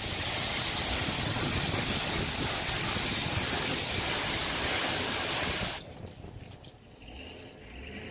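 Water from a garden hose spraying onto a truck's body panel, a steady rushing hiss that stops abruptly about six seconds in.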